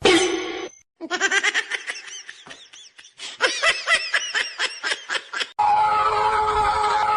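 High-pitched laughter in quick, rapid bursts. It cuts off abruptly and gives way to a different, steadier sound with held wavering tones.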